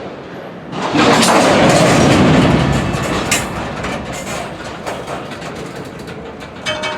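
Diesel freight train running by: a loud rumble that jumps up suddenly about a second in and eases off after about two seconds, with a few sharp clicks from the wheels and cars.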